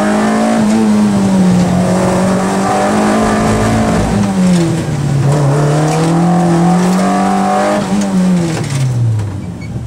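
A slalom car's engine heard from inside the cabin, driven hard at high revs with a brief lift about halfway through, then revs falling away near the end as the car slows.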